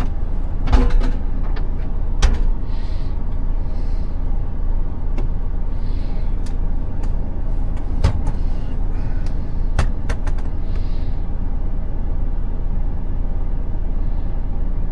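Heavy truck's diesel engine running steadily, with several sharp metallic knocks and a few short hisses of air.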